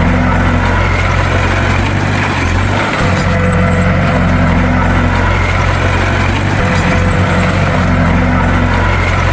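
Bulldozer's diesel engine running steadily, a deep even drone.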